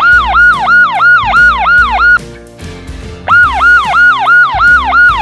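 Police car siren in a fast yelp, each sweep dipping and rising again about three times a second. It comes in two runs with a break of about a second between them, over a background music track.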